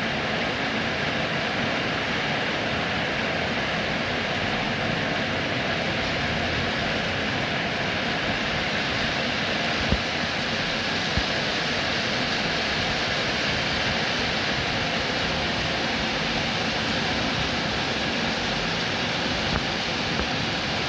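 Steady rain falling, a continuous even hiss, with a few sharp single taps about ten and eleven seconds in.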